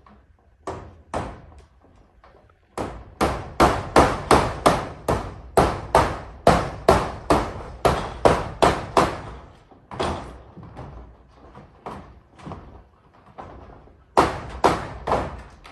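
Hammer blows nailing zinc roofing sheets: a couple of single strikes, then a fast even run of about three blows a second for some six seconds, a few scattered blows, and a short run of four near the end.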